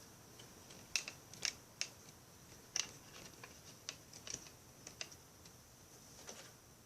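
Handling noise: a series of light, irregular clicks and taps, about eight spread out, over a faint steady high hiss.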